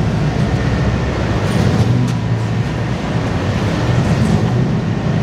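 Steady low rumble of a car engine idling while warming up.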